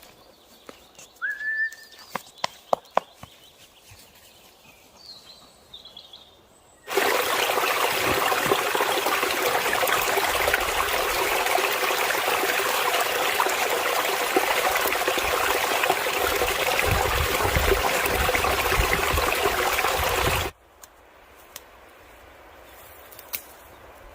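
Quiet outdoor ambience with a few short bird chirps and some clicks. About seven seconds in, a loud, steady rush of running water cuts in abruptly, and it stops just as abruptly some thirteen seconds later.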